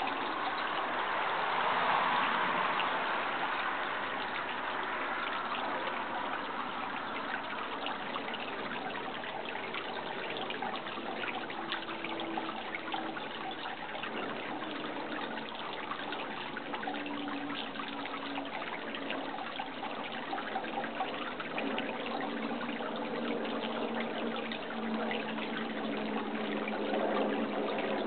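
Running water, a steady unbroken rush, swelling slightly about two seconds in.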